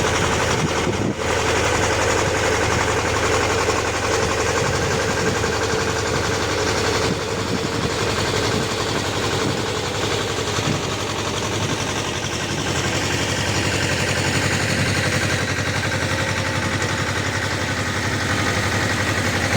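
Small tractor engine running steadily while driving a rotary tiller, with a brief break about a second in.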